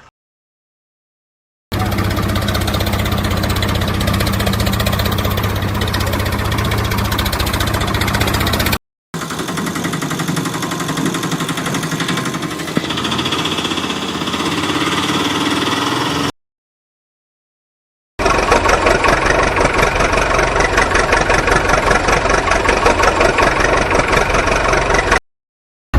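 Engine running steadily, heard in three separate stretches of several seconds each, broken by abrupt cuts to dead silence.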